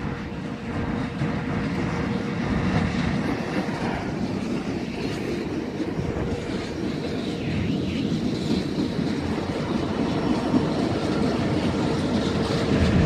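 A train rolling past, its wheels clattering over the rail joints, growing a little louder near the end.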